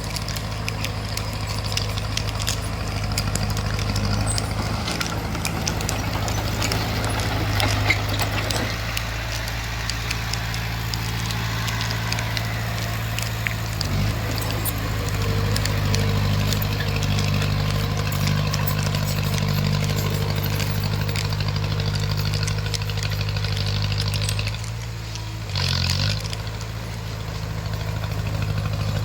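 Bulldozer's diesel engine running at a steady pitch, with scattered clicks and clanks. The engine note dips and shifts briefly about halfway through and again near the end.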